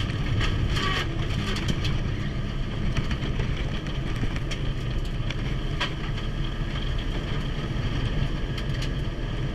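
Mitsubishi Lancer Evolution's turbocharged 2.0-litre four-cylinder engine running hard from inside the cabin, with a steady low drone, road noise and a few sharp clicks. The engine is running without boost after a blown intercooler hose, so it pulls like a naturally aspirated engine.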